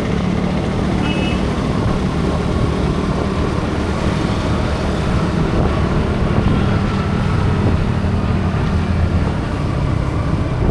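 A vehicle engine runs steadily with road noise from a ride through traffic. A short high beep sounds about a second in.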